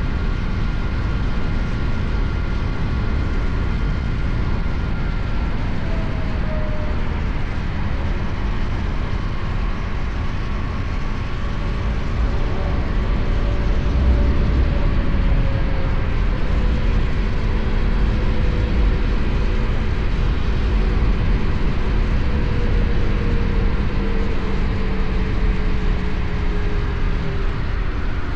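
KTM Duke 250 single-cylinder motorcycle engine running at highway speed under heavy wind rush and road noise; in the second half its note slowly falls in pitch.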